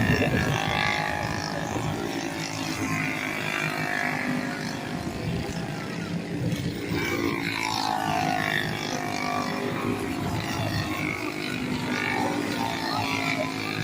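Small single- and twin-cylinder racing engines of lawn mowers or go-karts running on the track, several at once, their pitch rising and falling as they rev through the corners and pass.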